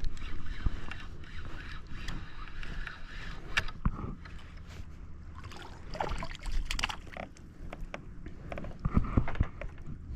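Water sloshing against a kayak hull, with scattered knocks and splashes, clustered around the middle and again near the end.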